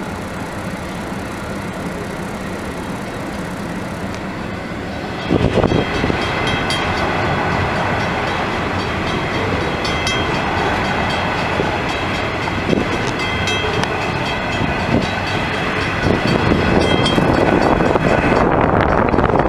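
A loaded coal train of hopper wagons rolling past: a steady rumble of steel wheels on rail with scattered knocks. The sound jumps louder about five seconds in, gains high steady tones over the rumble, and rises again near the end.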